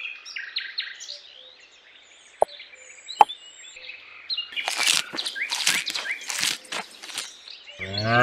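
Birds chirping, two sharp clicks, then a few seconds of scraping and clattering as a small plastic tub is set down on sand. A cow starts to moo right at the end.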